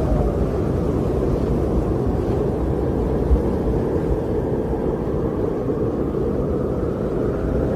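Strong winter wind blowing in a steady low rush, with a brief thump about three seconds in.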